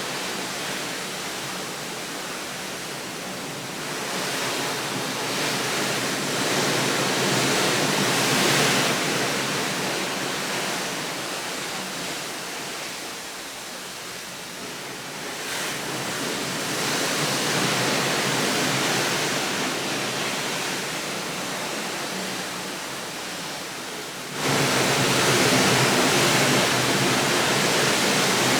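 Steady rushing outdoor noise that swells and eases every several seconds, then jumps suddenly louder near the end.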